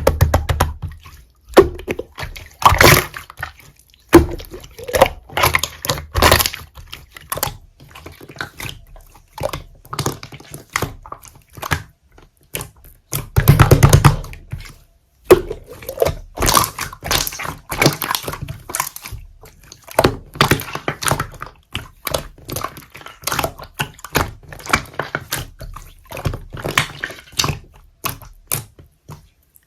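Slime being squeezed, pressed and stretched by hand, giving irregular wet clicks, pops and squelches, with a louder, denser squish about halfway through.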